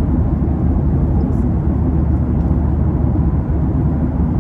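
Steady low drone inside an airliner cabin in flight: the constant engine and airflow noise, even in level throughout.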